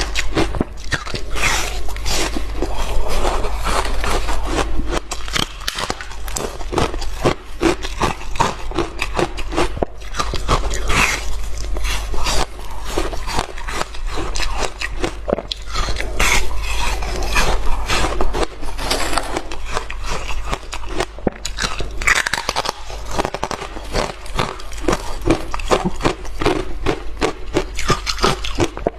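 Hard ice being bitten and chewed close to the microphone: dense, irregular crunching and cracking throughout, over a steady low hum.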